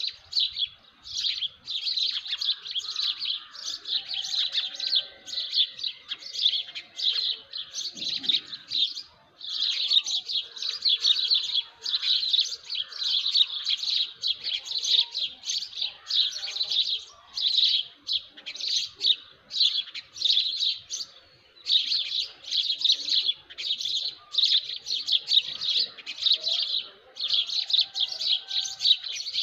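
Many small birds chirping together in a dawn chorus: quick, high chirps in almost unbroken runs, with a couple of short breaks. Fainter, lower calls sound underneath.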